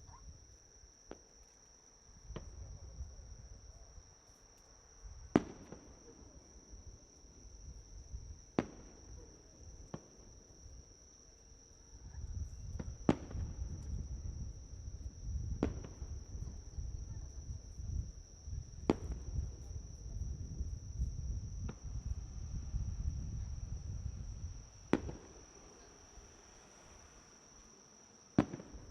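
Fireworks bursting: about ten sharp bangs spaced a few seconds apart, with a low rumble in the middle stretch. Under them runs a steady, high insect chirring.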